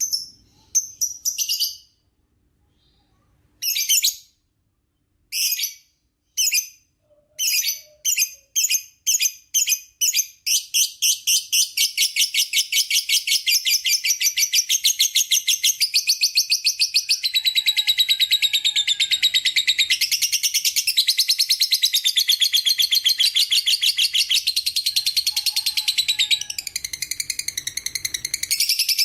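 Lovebird singing its long 'ngekek' chatter. A few separate shrill chirps and a pause come first, then the notes speed up and, about a third of the way in, run together into a continuous rapid high-pitched trill.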